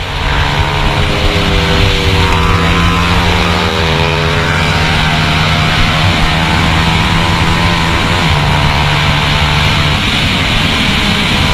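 A 150 cc single-cylinder motorcycle engine running hard at high revs, heard from on the bike, with the pitch dropping and climbing again a few times as the rider shifts gears, over a steady rush of noise.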